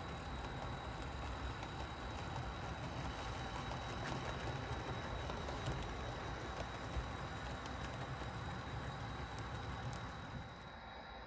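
HO scale model train running over the track, a steady engine-like rumble with a faint whine and scattered light clicks from the wheels over rail joints and the new crossover. The sound drops away shortly before the end.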